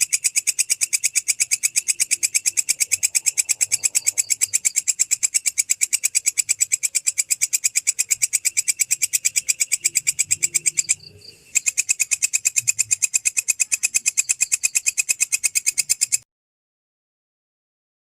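An insect stridulating, a rapid, evenly spaced train of sharp, high chirps. It breaks off briefly about eleven seconds in and stops shortly after sixteen seconds.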